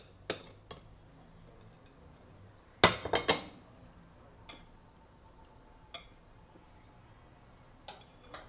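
Plates and serving utensils clinking and knocking together as food is dished out: scattered single clinks, with a louder cluster of several about three seconds in.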